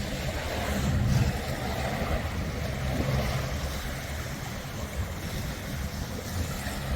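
Strong wind buffeting the microphone in an unsteady low rumble, over the steady wash of waves on a beach.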